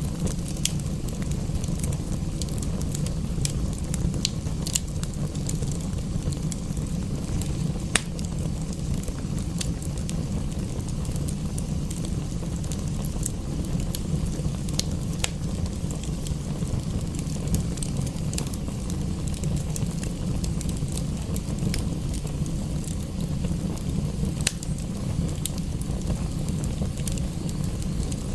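Wood fire crackling in a fireplace: irregular sharp pops and snaps, one louder snap about eight seconds in, over a steady low rumble.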